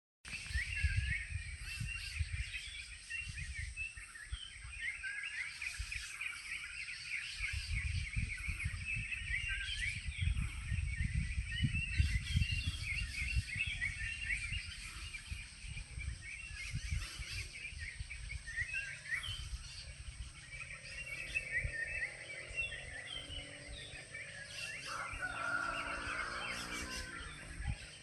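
Many small birds chirping without a break, a chorus of short, quick calls over a low rumble. Near the end a steadier pitched sound joins in.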